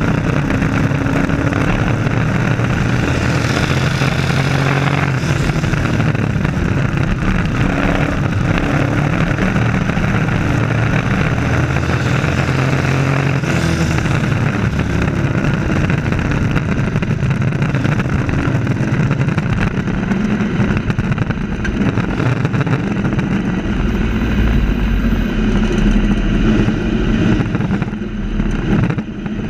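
Several race trucks' engines running at speed around an oval track, their pitches rising and falling as the trucks lap. Two louder pass-bys swell up about four and thirteen seconds in.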